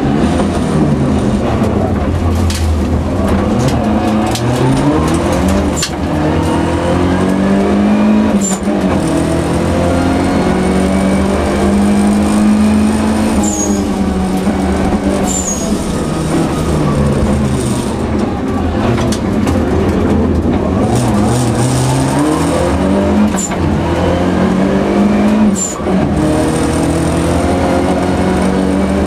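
Volvo 242 Turbo rally car's turbocharged four-cylinder engine at full throttle, heard from inside the cabin. The engine note climbs through each gear and drops back at every shift, with short high chirps several times.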